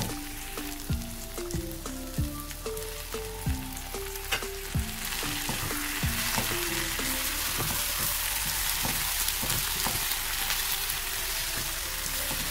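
Capsicum, onion and tuna frying in oil in a non-stick pan, with a wooden spatula stirring and knocking against the pan. The sizzle grows louder and denser about five seconds in, around when the tuna is in the pan.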